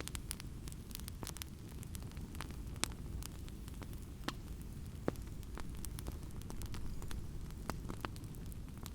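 Fireplace fire crackling: a steady low rumble of flame with frequent irregular snaps and pops, a few of them sharper and louder.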